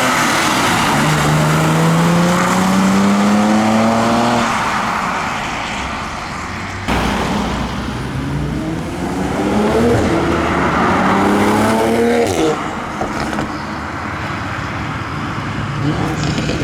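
Car engines accelerating hard away, the engine note rising steadily twice, with an abrupt break about seven seconds in.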